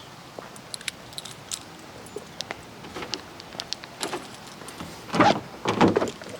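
Scattered light clicks and rattles of things being handled, with a few louder knocks and rustles about five seconds in.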